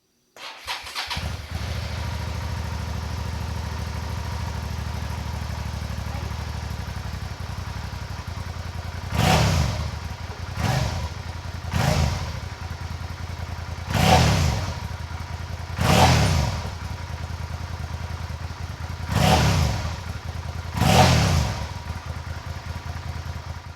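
Suzuki SV650S (second generation) 645 cc V-twin motorcycle engine starting about half a second in and idling steadily, then revved in seven short throttle blips, each rising and falling back to idle.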